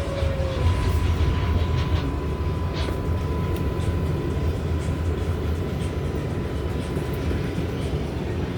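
Inside an R188 subway car on the 7 line: steady low rumble of the train, with a faint electric whine that falls in pitch and dies away about half a second in, then a thin steady hum and a few light clicks.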